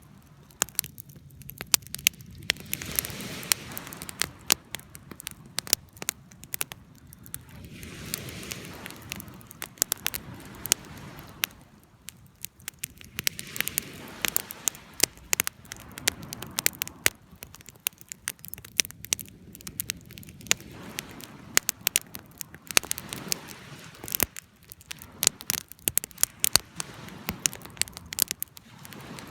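Wood fire crackling, with frequent sharp pops and snaps, over a soft rushing sound that swells and fades every few seconds.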